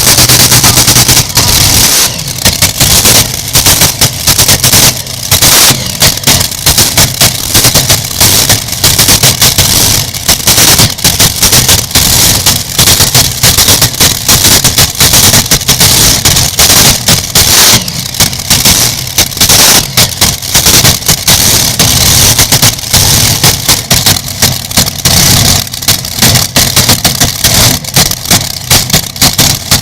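Tractor engine running very loud with a rapid, crackling stream of exhaust reports that sounds like machine-gun fire and overloads the recording.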